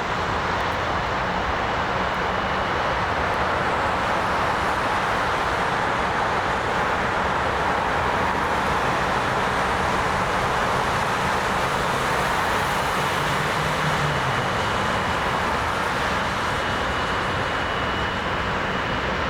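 Jet airliner engines running: a steady rushing noise with a thin high whine over it.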